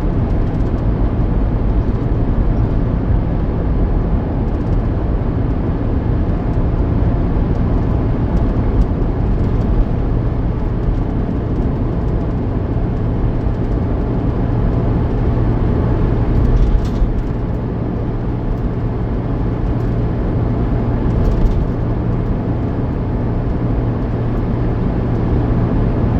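Car driving at steady speed: a constant low engine and road-noise drone.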